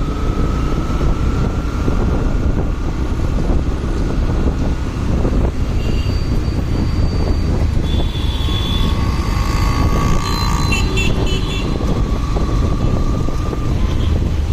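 Steady rumble of a motorcycle ride through city traffic: engine and road noise, with a few short high tones from other traffic about two-thirds of the way through.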